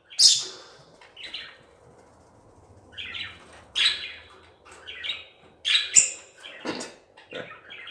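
Small caged birds chirping and squawking in short, scattered, high-pitched calls, with a sharp click about six seconds in.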